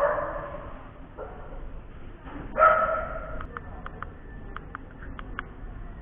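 A dog barking twice, drawn-out, with a fainter call between, followed by a run of short light clicks.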